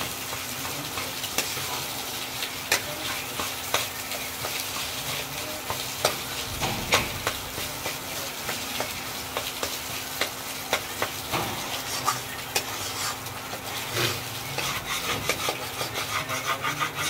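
Mashed potato-and-egg filling frying in oil in a black wok, sizzling steadily while a metal spatula stirs and scrapes it, the spatula's strokes clicking against the pan, more often in the last few seconds.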